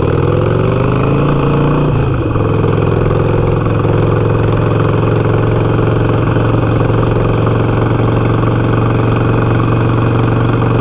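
Harley-Davidson Iron 883's air-cooled V-twin engine under way: it rises in revs for about two seconds, drops at a gear change, then settles into a steady cruise at about 30 mph.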